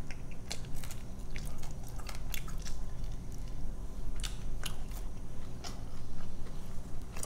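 Chewing and biting into a Domino's chicken wing, a string of short, irregular mouth clicks.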